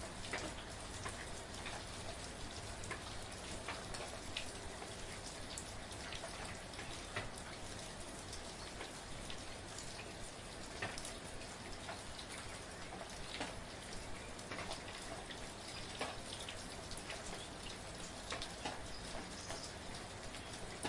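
Soft, steady rain: an even hiss with many individual drops ticking at random through it.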